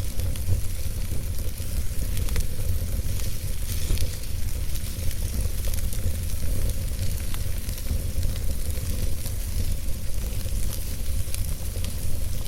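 Wood fire burning in a fireplace: a steady low rumble of flames with hiss and scattered small crackles and pops from the logs.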